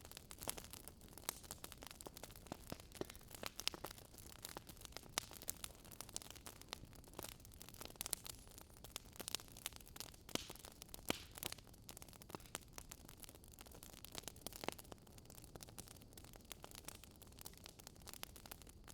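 Wood fire crackling softly: irregular sharp pops and snaps, several a second, over a faint steady hiss.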